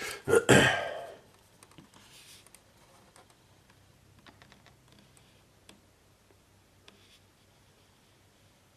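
Plastic model-kit sprue handled close to the microphone: a loud rustling clatter in the first second, then faint scattered clicks and taps of plastic.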